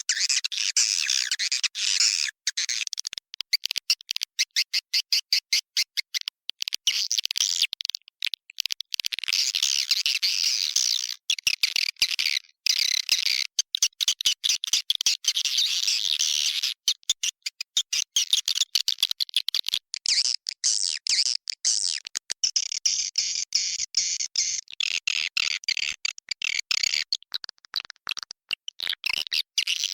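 Recorded edible-nest swiftlet calls: dense, high chirping and twittering with runs of rapid clicking chatter. This is a lure call of the kind played from a swiftlet nesting house to draw the birds in to roost.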